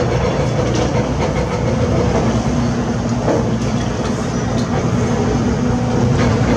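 Diesel engine of a heavy construction machine running steadily under load, with a couple of faint knocks.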